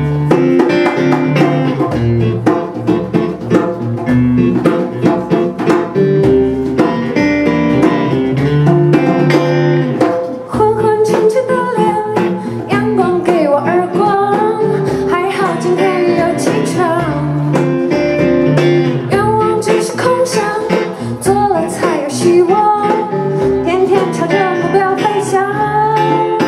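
A band performing a song: guitar playing an instrumental passage, with a singing voice coming in about ten seconds in and carrying on over the guitar.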